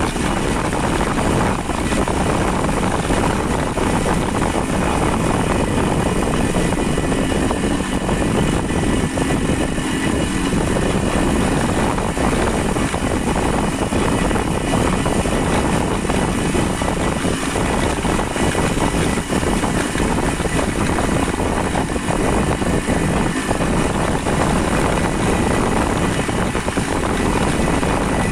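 Steady rumble of wind buffeting the microphone on a moving vehicle, with a constant low roar and no pauses.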